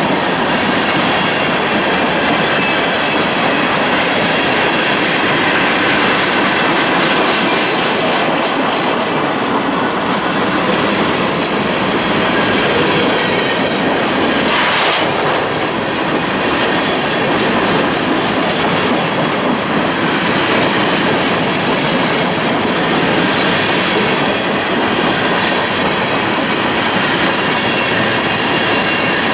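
Freight train cars rolling past, a steady loud rumble and clickety-clack of wheels over the rail joints, with a faint high squeal from the wheels.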